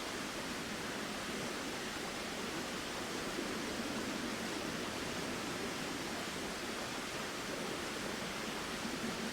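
Flowing river or stream: a steady, even rush of water.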